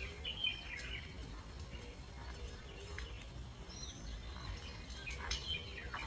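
Short high bird chirps and squeaks in a few quick clusters, about half a second in and again near the end, with one higher gliding note in the middle, over a steady low background rumble.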